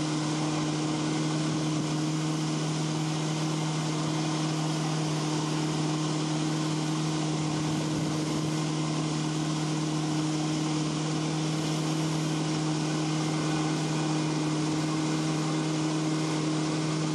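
Motorboat engine running steadily at one pitch, with an even hiss of wind and water over it.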